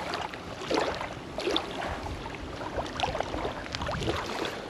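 Water splashing and sloshing in short, irregular bursts, about one a second, as a just-landed smallmouth bass is handled.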